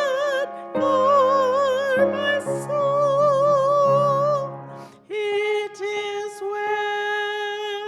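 A slow hymn sung with marked vibrato over piano accompaniment; the music breaks off briefly about five seconds in, then a long note is held.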